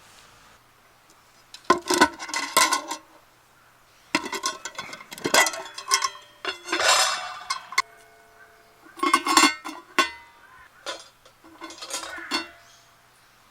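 Metal camp cookware and utensils clattering and clinking as they are handled, in about five short bursts, some leaving a brief metallic ring.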